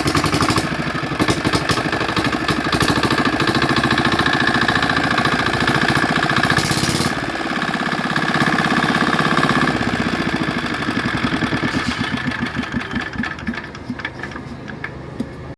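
A 4.5 HP engine running at speed with fast, even firing beats; its note shifts about seven seconds in. In the last few seconds the beats slow, spread apart and grow quieter as the engine winds down.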